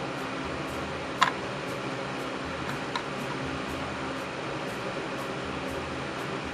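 Wind tunnel's electric fan running steadily, with a sharp click a little over a second in and a fainter click about three seconds in.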